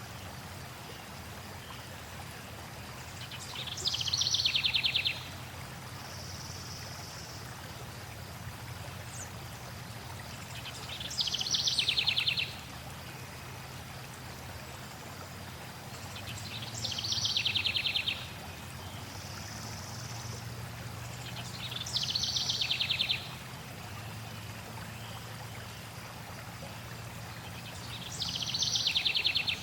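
A songbird repeats the same short song five times, about every five to six seconds: a high note, then a rapid trill that falls in pitch, each song lasting about a second and a half. Under it runs the steady rush of flowing stream water, with fainter calls from another bird between the songs.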